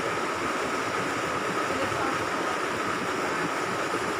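Steady rush of flowing water running through a trout farm's tanks and channels.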